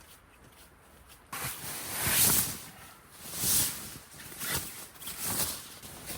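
Bedding rustling and shuffling in several swells of noise as an inflated sleeping pad and bedding are moved and arranged, starting about a second in.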